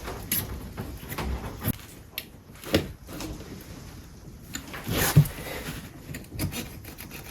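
Utility knife cutting through a rubber conveyor belt: irregular scraping and rustling strokes with a few sharp knocks, the loudest about five seconds in.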